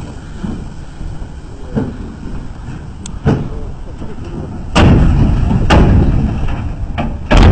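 Heavy truck straining: a low rumble broken by knocks and thuds, jumping sharply louder about five seconds in and again near the end.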